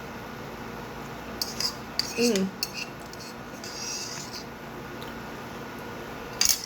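A utensil clinking against a bowl a few times while eating ramen, with a few sharp clicks about one and a half seconds in and again near the end.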